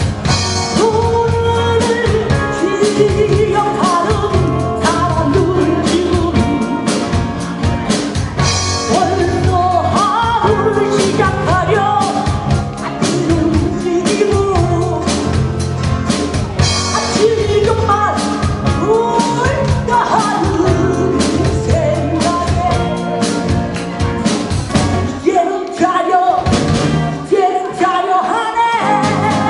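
Live band playing a rock-pop song: a singer over drum kit and bass. The bass drops out briefly near the end.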